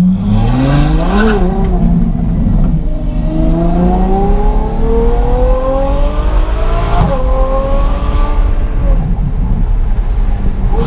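Ferrari F12 Berlinetta's naturally aspirated 6.3-litre V12 through an IPE Innotech valved exhaust with the valves open, heard from inside the cabin. The revs rise and fall twice near the start, then the engine pulls up through the revs in one long rising howl, upshifts about seven seconds in with a sudden drop in pitch, climbs again and eases off near the end.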